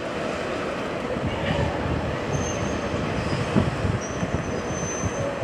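Train running past on the rails, a steady rumble and rattle of wheels, with a thin high-pitched wheel squeal briefly about two seconds in and again for about a second near the end.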